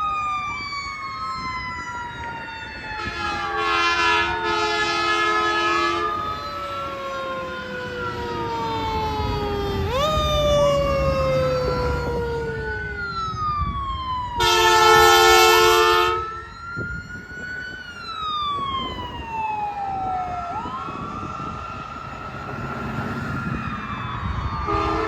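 Emergency vehicle sirens wailing, overlapping: each tone climbs quickly, then falls slowly over several seconds. Air horn blasts are sounded three times: a long blast a few seconds in, a louder one just past the middle, and a short one at the end.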